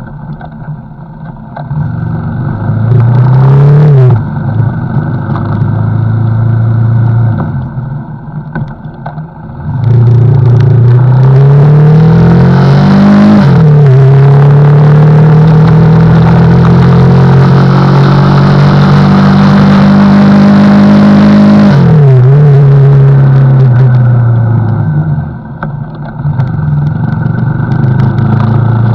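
CFMoto NK motorcycle engine under way: it revs up and drops at a gear change about four seconds in, then accelerates hard with rising pitch and another upshift, and holds a steady cruise with heavy wind rush on the microphone. Near the end the engine pitch falls as the bike slows, then it settles at a steady speed.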